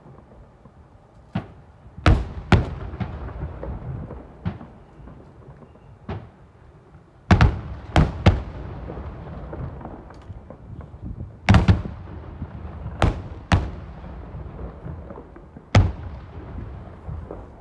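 Aerial fireworks shells bursting: about a dozen sharp booms at irregular intervals, some in quick pairs, each trailing off in a low rumble.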